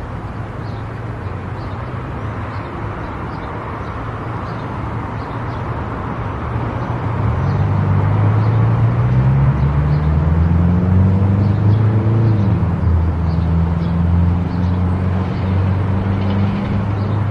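Car driving with steady tyre and road noise. About seven seconds in, the engine's note rises and gets louder as the car accelerates, dips once near twelve seconds, then settles into a steady run.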